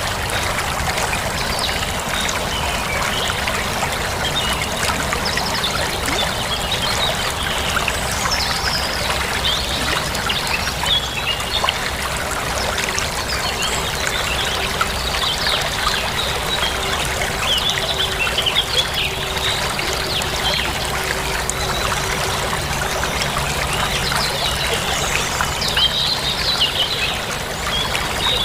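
Running water flowing steadily, with birds chirping over it.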